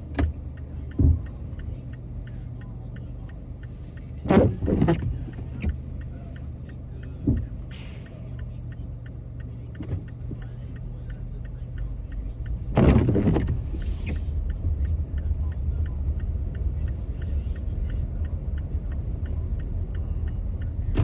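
A car driving: a steady low rumble of engine and road noise, with a faint regular ticking. Several short thumps or rushes sound at intervals, the loudest about two-thirds of the way through, after which the rumble grows a little louder.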